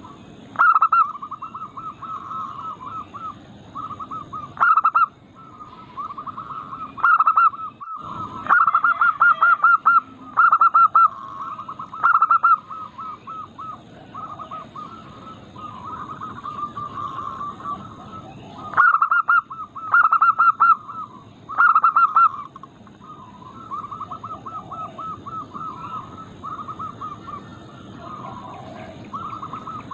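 Zebra doves (perkutut) cooing in fast stuttering runs of notes, several birds overlapping, with louder phrases breaking in every few seconds over steady softer cooing.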